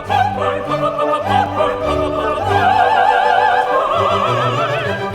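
An operatic voice singing an aria with orchestra, ending on long held notes with wide vibrato, the second pitched higher than the first.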